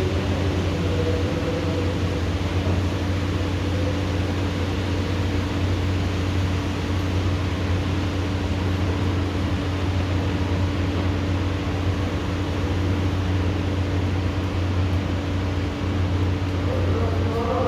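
Steady even hiss over a constant low machine hum with a steady mid tone, like an air conditioner or fan running. Faint wavering tones join near the end.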